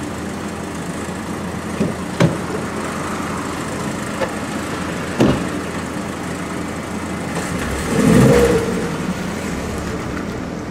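Car engine idling steadily, with a couple of sharp knocks. About eight seconds in the engine swells as the car pulls away.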